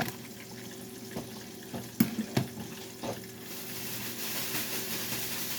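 A few knocks of dishes or utensils, then a kitchen sink tap turned on about three and a half seconds in, running steadily.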